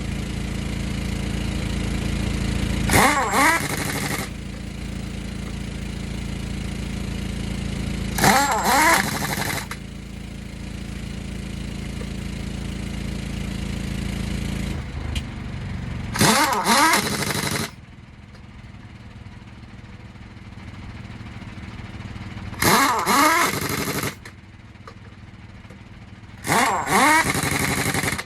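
An impact wrench running lug nuts on a truck wheel in five short bursts of about a second and a half, its pitch dropping within each burst as the nut tightens. Under the first half there is a steady low engine drone that drops away about halfway through.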